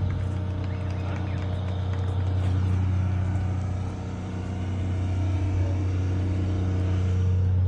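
A motor vehicle engine running at a steady idle, giving a constant low hum with no revving.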